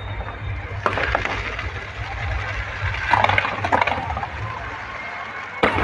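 Aerial fireworks bursting into crackling stars: sharp cracks and bangs about a second in, a cluster around three seconds in, and a loud pair near the end, over a continuous crackle.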